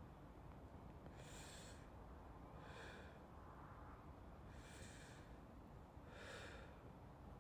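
Slow, soft breathing close to the microphone, in and out twice.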